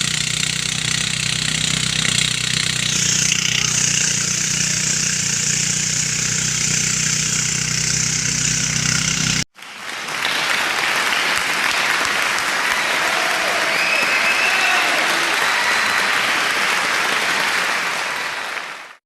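Engine-driven rice thresher running steadily, a motor hum under a steady hiss. About halfway through the sound cuts abruptly to a louder, even rushing noise that fades out at the end.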